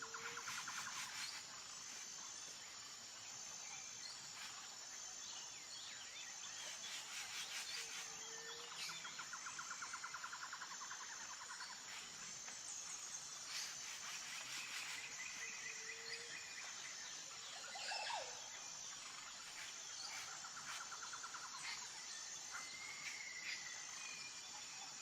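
Faint natural ambience: insects trilling high and steady in regular pulses, with scattered bird chirps and a short low call repeating about every eight seconds.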